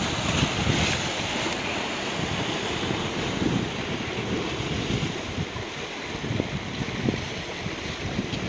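Sea waves washing on a rocky beach, with wind buffeting the microphone in uneven gusts; the hiss of the wash is strongest in the first couple of seconds.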